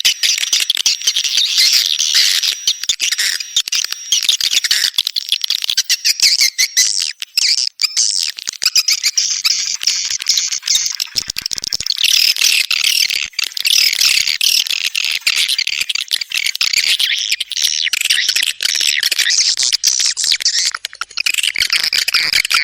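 Edible-nest swiftlets chirping and twittering in a dense, continuous chorus of rapid high chirps. It is a swiftlet call recording of the kind played to lure the birds into nesting houses.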